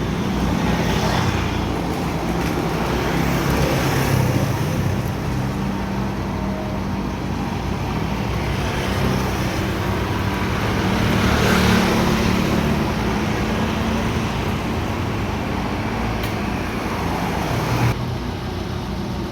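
Road traffic: motor vehicle engines running steadily, growing louder a few times as vehicles pass.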